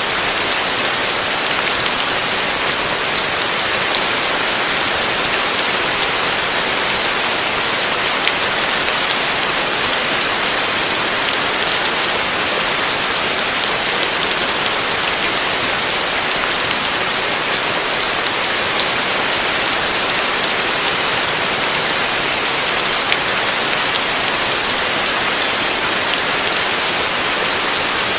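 Heavy rain falling steadily on a roof: a dense, even hiss of drops that holds level throughout, with no thunder.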